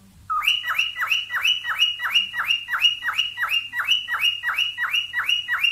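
Cockatiel mating call: a fast, even run of repeated chirps, about four a second, each note rising and then dropping sharply in pitch, starting just after a brief quiet.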